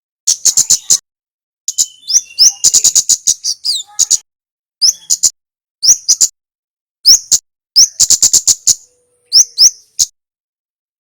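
Kemade singing: rapid runs of sharp, very high chip notes, about ten to the second, broken by short pauses and single upward-flicking notes. It falls silent about a second before the end.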